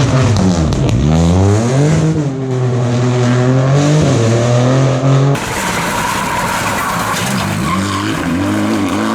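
Rally car engine revving hard, its pitch dropping and climbing through gear changes. About five seconds in the sound changes abruptly to another car's engine, with more tyre and road noise, rising again near the end.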